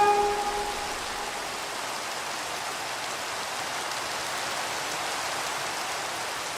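Steady rain falling, an even hiss of rain with no let-up. The last held notes of the slowed, reverb-drenched music fade out under it in the first second.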